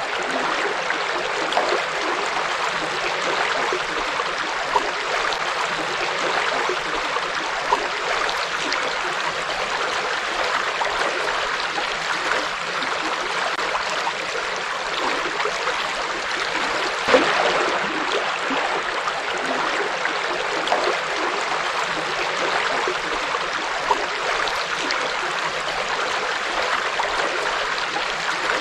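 River water flowing and splashing over rocks in a steady rush, with small splashes and gurgles now and then and a slightly louder splash about 17 seconds in.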